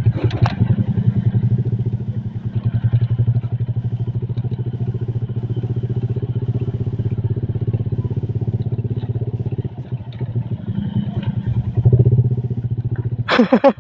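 Motorcycle engine running steadily on the move. It eases off briefly about ten seconds in, then picks up again.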